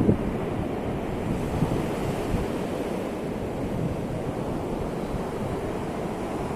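Ocean surf: a steady wash of sea waves, strongest at the very start and even after that.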